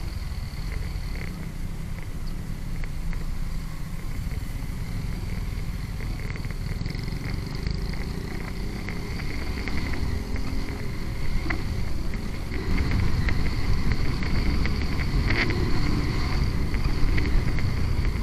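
Bajaj Rouser 180 motorcycle's single-cylinder engine running steadily while riding, under a low steady rumble of wind and road noise; it grows a little louder in the last few seconds.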